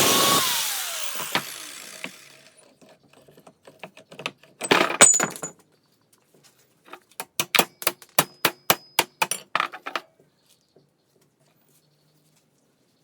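Angle grinder running down after being switched off, its whine falling away over about two seconds. This is followed by a few sharp metallic knocks and then a quick run of about a dozen knocks, three or four a second, as the cut CV joint is worked at.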